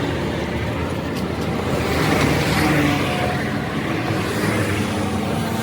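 A vehicle engine running, with a steady noise that swells about two seconds in.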